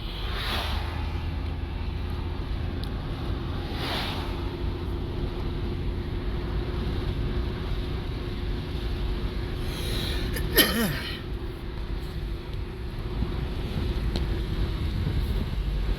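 Road noise inside a moving car: a steady low rumble from tyres and engine with a faint hum. About ten and a half seconds in comes one brief sharp sound that falls in pitch.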